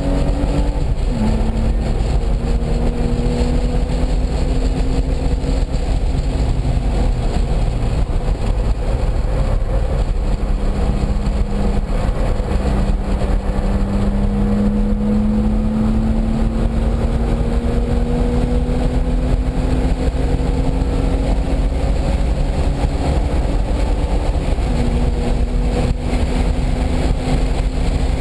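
Race-track car engine heard from onboard, pulling hard with its note climbing slowly through long stretches; the pitch drops at a gear change about a second in and jumps up again near the end. Heavy wind and road rumble run underneath.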